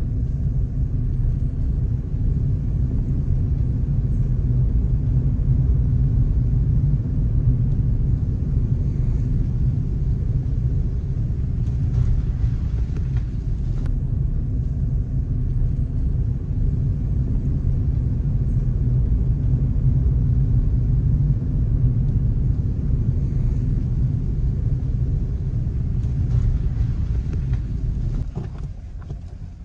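Loud, steady low rumble with no clear tone or rhythm, easing off slightly near the end.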